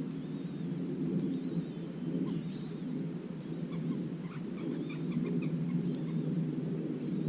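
A small bird repeating short, high, wavering calls about once a second, over a steady low droning noise.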